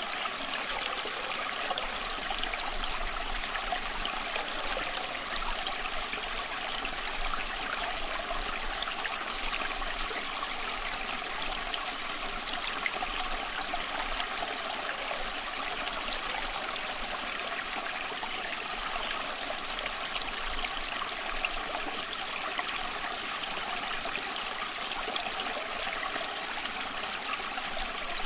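Small stream of water flowing and trickling over stones, a steady continuous splashing.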